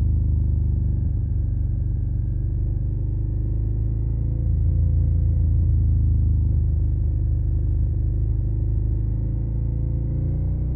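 Suzuki SV650's 645 cc V-twin running through a Yoshimura Alpha carbon exhaust at a steady cruise, a deep low rumble whose pitch rises and falls gently with the throttle. It gets a little louder about halfway through.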